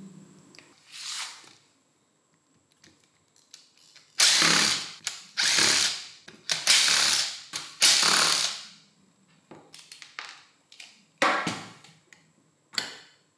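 Metal ratcheting and clicking in a string of short bursts, each starting sharply and fading out within about a second, from a hand-worked mechanism on an old angle grinder.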